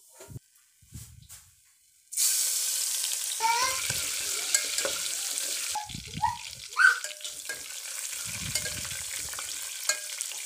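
Hot oil in an aluminium pressure cooker bursts into loud sizzling about two seconds in as chopped ingredients are dropped in. It keeps frying steadily while a wooden spatula stirs and scrapes the pan, with short squeaks and knocks.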